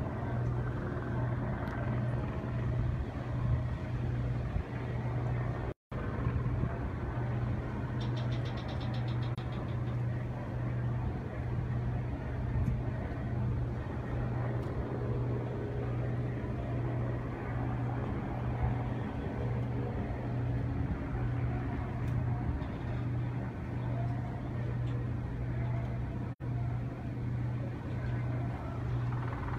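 A steady low engine hum over a background of noise, broken by two brief dropouts.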